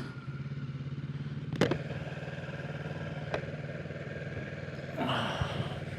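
Kawasaki Ninja 650's parallel-twin engine idling steadily, with a couple of sharp clicks and a short rustle about five seconds in.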